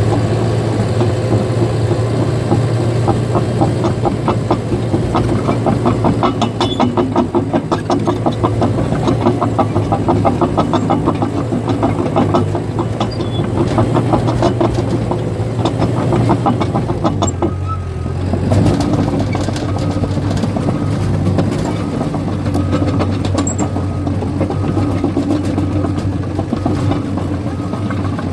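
Caterpillar bulldozer's diesel engine running steadily under the rapid, rhythmic clatter of its steel tracks. The track clatter dies away about two-thirds of the way through, and the engine carries on running.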